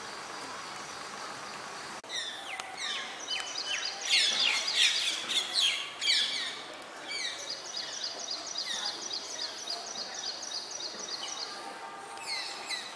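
Birds chirping and singing: a burst of quick falling chirps from several birds about two seconds in, then one bird repeating a short high note about four times a second for several seconds.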